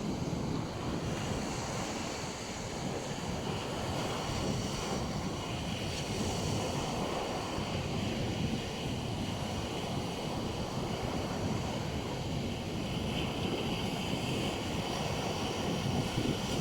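Black Sea waves washing steadily onto a beach, with wind rumbling on the microphone.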